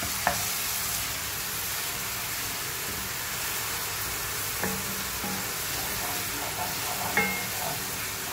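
Sliced onions and ginger-garlic paste frying in hot oil, sizzling steadily, while a wooden spoon stirs them and knocks against the pot three times.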